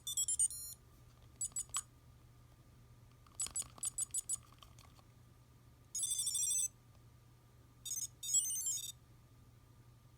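Digimon Adventure tri Digivice toy sounding a series of high-pitched electronic beeps from its small speaker. It opens with a quick warbling burst, then gives three short beeps, a run of about six beeps, and two longer warbling chirps near the end.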